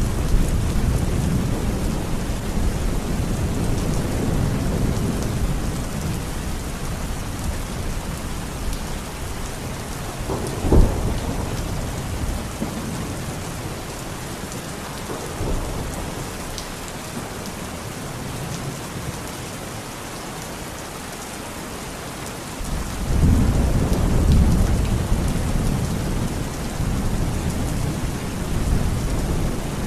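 Steady heavy rain with thunder: a low rumble fading over the first few seconds, a single sharp crack about a third of the way in, and another deep rumble rolling in about three quarters through.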